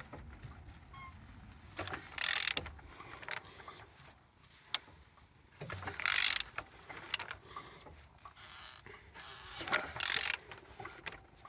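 Engine being turned over by hand with a ratchet on the crankshaft: scattered ratchet clicks, with three louder rasping bursts about every four seconds as the crank is pulled round. The engine turns freely, with compression on all cylinders.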